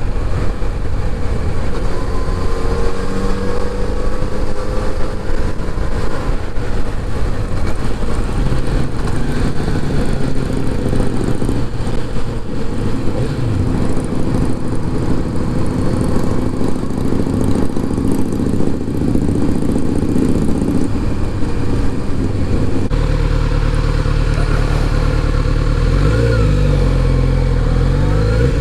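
Kawasaki Z900RS inline-four engine running under way, its revs rising and falling through the ride. About three quarters of the way in, the sound settles into a steadier, heavier low rumble.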